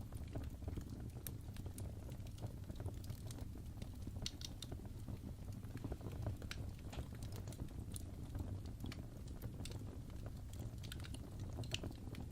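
Fireplace fire crackling: scattered irregular snaps and pops over a low, steady rumble.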